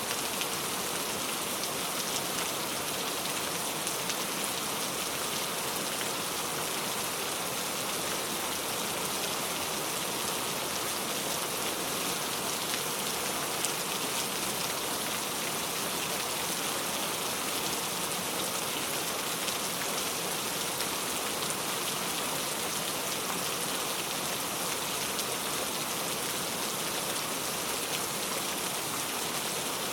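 Steady rain falling, a dense even hiss of drops with faint individual drop ticks and no change in intensity.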